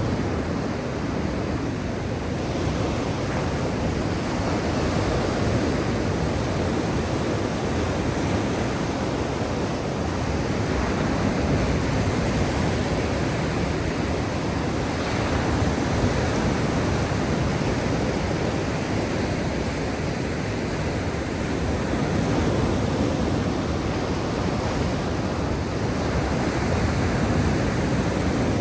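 Black Sea waves washing on the shore, a steady wash of surf that swells and eases gently every few seconds.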